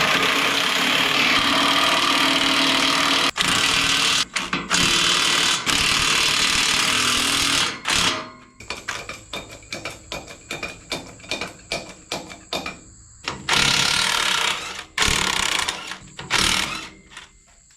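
Impact wrench hammering on tractor wheel nuts in long bursts as they break loose easily, with a stretch of rapid light clicks and rattles between the bursts.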